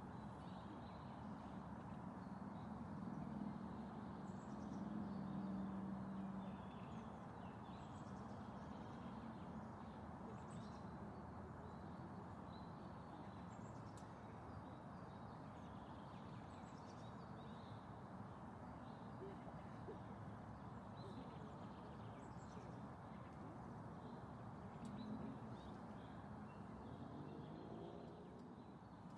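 Faint outdoor ambience: a steady rush of noise with scattered bird chirps, and a low hum in the first few seconds and again near the end.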